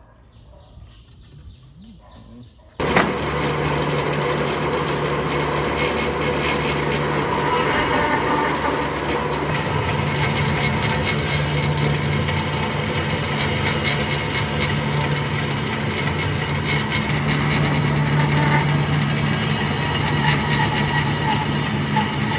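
Electric power tool switched on about three seconds in, then running steadily on wood with a steady motor hum under a harsh hiss.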